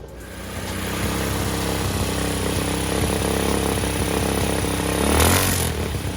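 212cc single-cylinder four-stroke engine running through a newly fitted Walker muffler with an RLV tip, coming up to a steady run in the first second. It briefly swells louder about five seconds in, then settles back.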